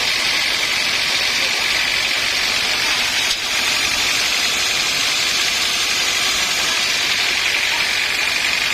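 Sawmill saw cutting through a log: a steady high hiss with a thin whine, briefly dipping about three and a half seconds in.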